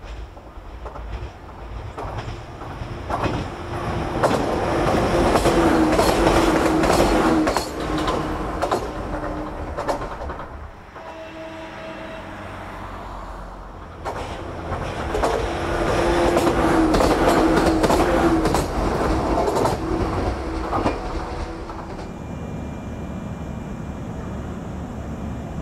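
Train running by, heard twice: each time it builds to a loud rumble with a steady hum and a quick run of wheel clicks over rail joints, then fades. A steadier, quieter rumble follows near the end.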